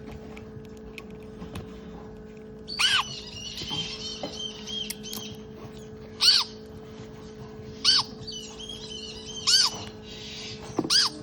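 Five short, sharp animal calls a second or two apart, with quicker high chirping between some of them, over a steady low hum.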